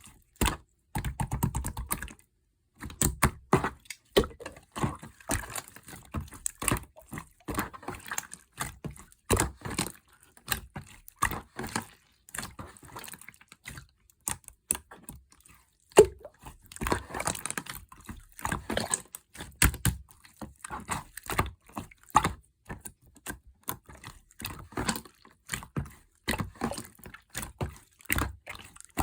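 Slime being squished and poked by hand: rapid, irregular wet clicks and small bubble pops, with brief pauses.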